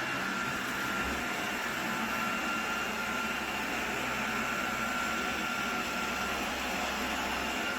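Lubluelu L20 robot vacuum running steadily while cleaning: a constant whir from its suction fan with a thin, steady high whine over it.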